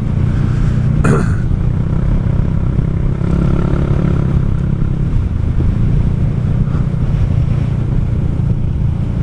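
Kymco Xciting 400i maxi-scooter's single-cylinder engine running steadily at cruising speed, with road noise, heard from the rider's seat. There is a brief sharp click about a second in.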